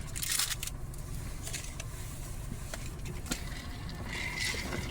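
Car engine idling, heard from inside the stopped car, with a short rustle near the start and a few small clicks as items are packed into a backpack.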